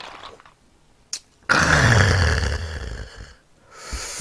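A loud, drawn-out burp of about two seconds after a glass of cola, rumbling low and fading out, followed near the end by a shorter hiss.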